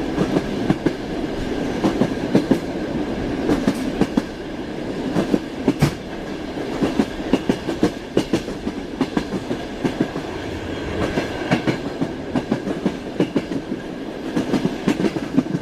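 Wheels of a moving train clattering over rail joints, a steady rumble with a running stream of sharp clicks, heard from inside a railway carriage.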